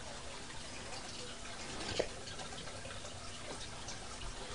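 Faint steady trickle of a dog urinating, with a single sharp click about two seconds in.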